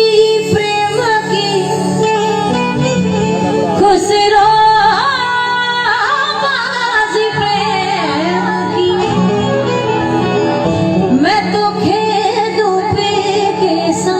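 A woman singing a slow, drawn-out devotional melody in long gliding phrases over a steady instrumental drone.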